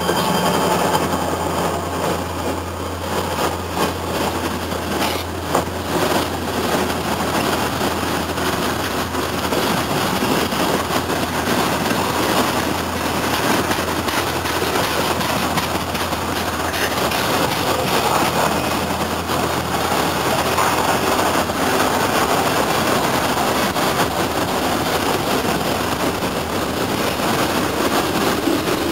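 Train passing close by: the steady noise of wheels running on the rails, with a low engine drone that fades about halfway through.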